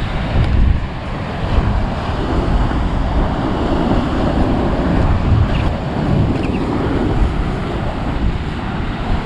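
Big ocean waves breaking and washing up the shore, steady and unbroken, with wind blowing across the microphone.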